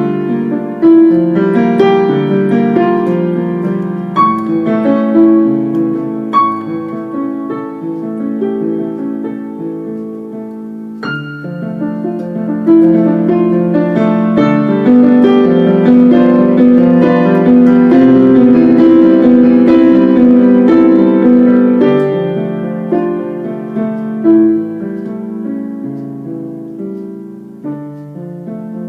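Solo piano playing a slow piece of sustained chords and melody, growing louder after about twelve seconds and softening toward the end.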